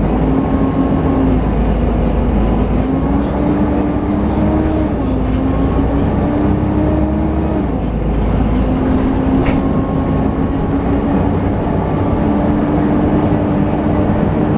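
Volvo B7TL double-decker bus on the move, heard from on board: the engine drones with its whining 'hoover' note over a low rumble. The whine climbs slowly in pitch and drops back twice, about 5 and 8 seconds in, then climbs again. A regular light ticking runs through the first few seconds.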